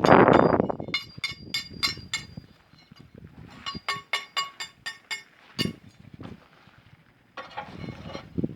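Two quick runs of hammer blows on steel, about four or five ringing metal clanks a second, during work on an excavator's undercarriage. A loud rush of noise comes at the start and again near the end.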